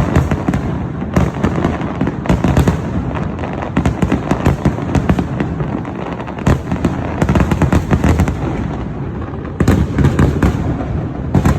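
Fireworks display: many shells bursting and crackling in quick, overlapping succession, the dense crackle swelling in waves a few times.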